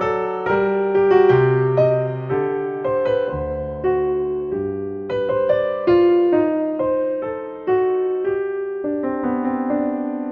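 Gentle solo piano music: a slow melody of single struck notes over sustained low chords, each note ringing and fading.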